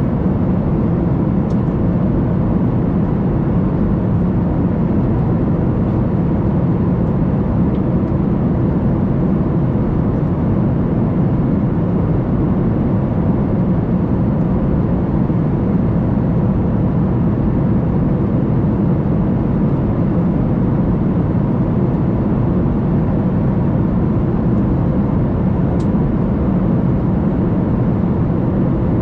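Steady, even cabin noise of a Boeing 737 MAX 8 airliner in flight: a constant low rumble with no change in level, as heard inside the passenger cabin.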